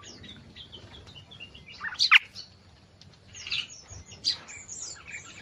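Small songbirds chirping, with scattered short calls; the loudest is a sharp, sweeping note about two seconds in, and another comes a little past four seconds.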